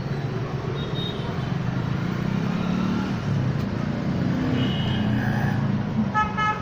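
Road traffic with vehicle engines running steadily, and a vehicle horn beeping briefly near the end.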